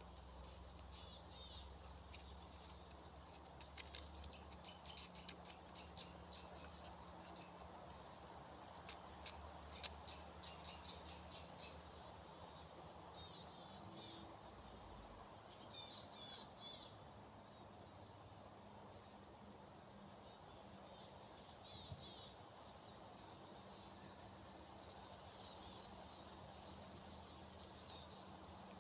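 Small birds chirping in short repeated phrases over quiet forest background noise, with a few sharp clicks around the fourth and tenth seconds.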